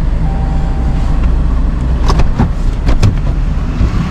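Vehicle engine running steadily with a low rumble, with several sharp clicks and knocks about two to three seconds in.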